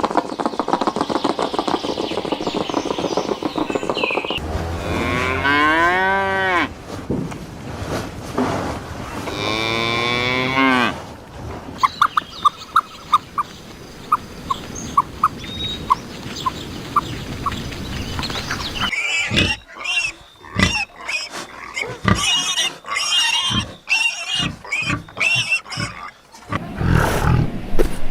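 Cattle mooing: two long calls a few seconds apart, each bending in pitch. They are followed by a run of short, evenly spaced chirps and then a busy stretch of short broken animal calls.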